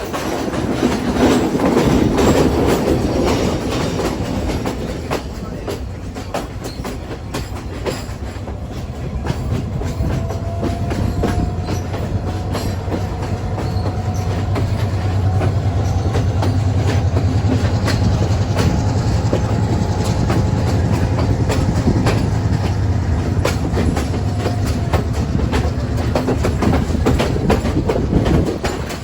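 Train running on rails: a steady rumble with the rapid clickety-clack of wheels over rail joints, and a faint high wheel squeal through the middle.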